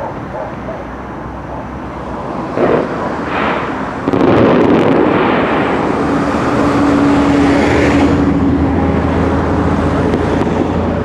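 Fireworks going off: a few sharp bangs about three to four seconds in, then several seconds of dense hissing crackle, with a low rumble toward the end.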